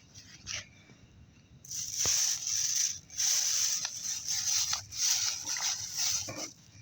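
A lit firework hissing and sputtering. The hiss cuts in suddenly just under two seconds in and fades out near the end.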